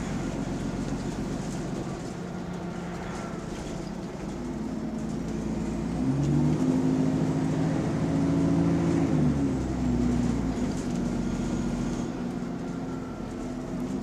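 Bus engine running with a leaking exhaust. It pulls harder and grows louder about six seconds in, with its note rising a little, then eases back about three seconds later.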